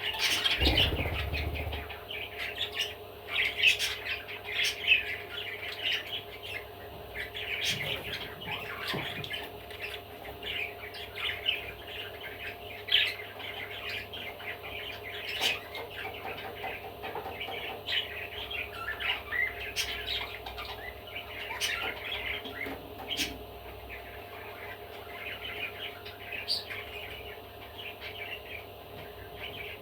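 Budgerigar chattering and warbling non-stop, a busy stream of chirps, squawks and sharp clicks, over a faint steady hum.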